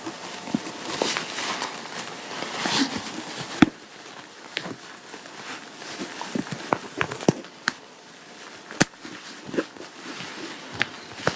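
Fabric rustling as clothing is handled and adjusted, with scattered small sharp clicks and taps; the loudest tap comes a little over three and a half seconds in.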